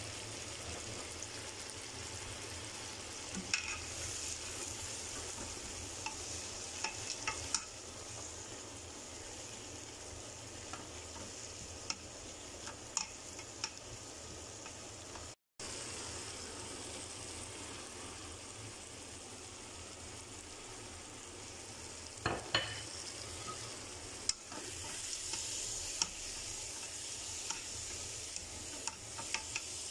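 Diced tomatoes, onion, garlic and chopped herbs frying in oil in a metal pot, with a steady sizzle. A spatula stirs and scrapes through them, making scattered short taps and scrapes against the pot. The sound cuts out for a moment about halfway.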